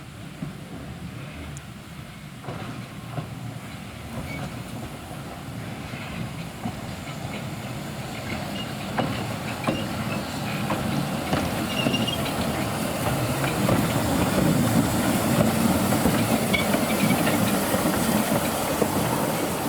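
Narrow-gauge Ffestiniog Railway steam train drawing nearer and growing steadily louder, its wheels clicking over the rail joints, with a hiss of steam.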